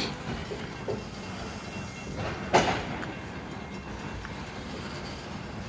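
Cars of a loaded coal train rolling past, wheels clacking over the rail joints under a steady rumble. A sharp metallic clank comes about two and a half seconds in, with smaller knocks before it.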